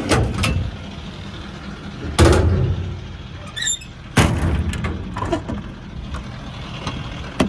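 Doors on a Ford F550 service truck being shut: three heavy thuds about two seconds apart, the first right at the start and the last about four seconds in, over a steady low rumble.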